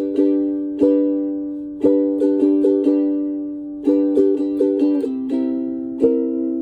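Strummed chords on a plucked string instrument in a steady rhythm, each strum ringing and fading, with a chord change about five seconds in; no singing.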